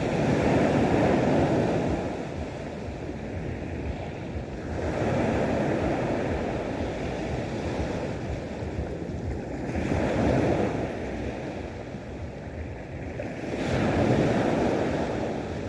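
Sea waves washing onto the shore, the surf swelling and falling back four times, about every four to five seconds.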